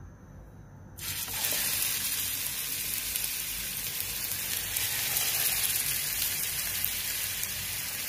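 Chicken patty shallow-frying in hot oil in a nonstick pan, sizzling steadily. The sizzle starts abruptly about a second in.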